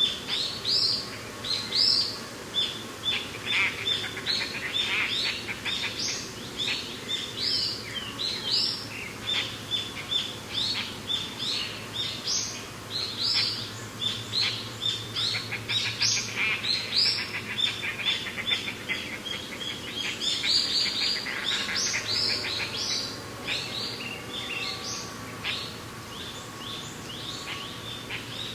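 Birds chirping and calling: a dense, continuous chorus of short, quick chirps, many overlapping.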